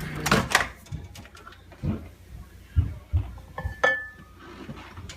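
Scattered knocks and clatters of things being handled, like dishes in a kitchen, five or so separate hits with the loudest in the first second, and a brief high tone near four seconds in.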